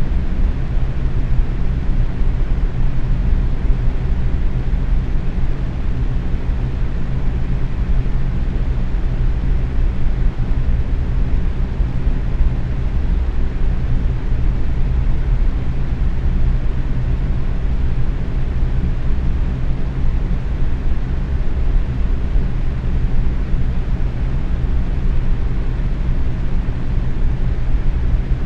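Box fan running steadily at medium speed: an even rush of air, heaviest in the low range, with a steady low hum underneath.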